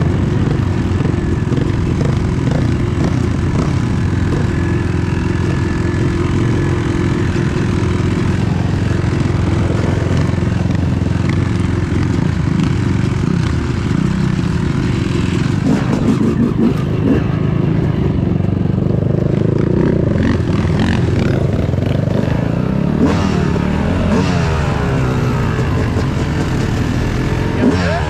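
Yamaha YZ250 two-stroke dirt bike engine running while ridden, revving up and down through the gears, with several rising and falling sweeps near the end.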